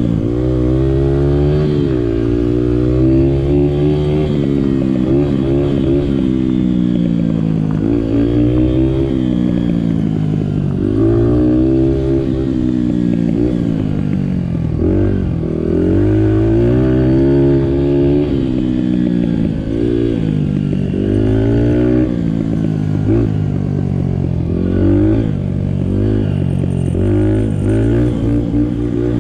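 Honda 50cc dirt bike engine running while being ridden, its pitch rising and falling again and again as the throttle is opened and eased off every few seconds.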